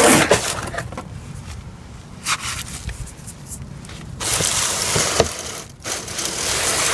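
Handling noise: things being moved about under the hood, with scraping and crinkling and a few sharp clicks.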